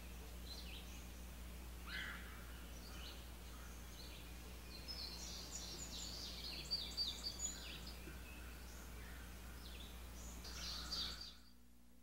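Songbirds chirping and trilling over a steady low hum, the calls busiest around six to seven seconds in. The sound cuts off abruptly about eleven seconds in.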